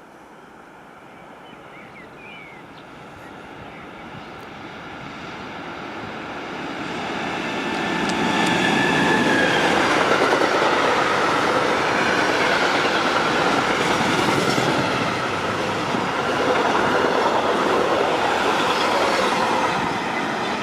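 A train passing through the station without stopping: the rail noise rises steadily over the first eight seconds as it approaches, then runs loud and steady with a faint whine as it goes by.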